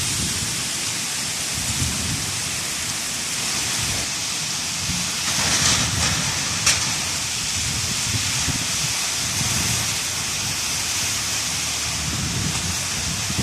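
Hailstorm: hail and heavy rain pelting down in a steady hiss over a low gusty rumble, swelling louder a little past five seconds, with one sharp crack about a second later.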